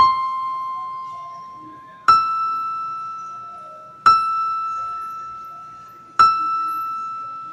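Slow keyboard music: four single bell-like notes struck about every two seconds, each ringing out and fading away; the first is lower, the next three on the same higher note.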